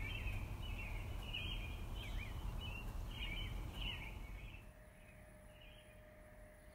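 Small birds chirping over and over, quick sweeping calls over a low background rumble; both stop about four and a half seconds in, leaving only a faint steady hum.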